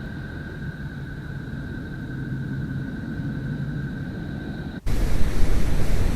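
A space 'planet sound' recording: a low rumbling drone with a faint steady whistle-like tone over it. About five seconds in it cuts off suddenly and gives way to a louder rushing hiss and rumble.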